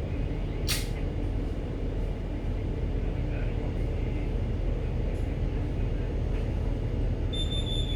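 Steady low drone of a ship's engines and machinery, with a sharp click about a second in and a short high-pitched beep near the end.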